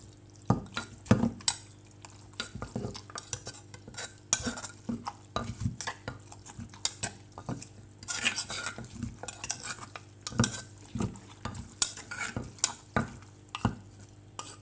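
Papaya salad being mixed with a kitchen utensil: irregular knocks, clinks and scrapes against the dish, a few a second, over a faint steady hum.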